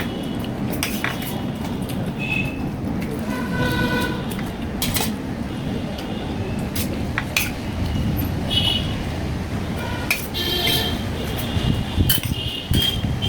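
Cutlery clinking against a plate during eating, in scattered sharp clicks. Underneath is a steady low rumble of background noise, with several short high tones like horn toots.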